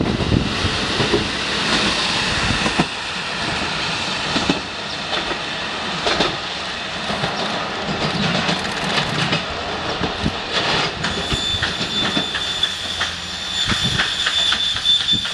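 Steam-hauled passenger train running on the rails, its wheels clattering irregularly over the track, with a thin steady squeal coming in over the last few seconds.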